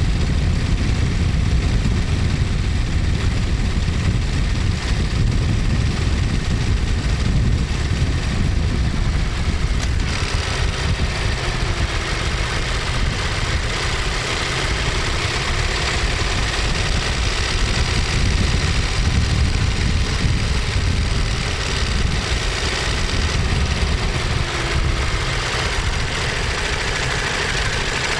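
Ducati Monster 1200S's L-twin engine and exhaust running steadily, mostly a low-pitched rumble. About ten seconds in, a higher droning tone joins it and drifts gently up and down in pitch.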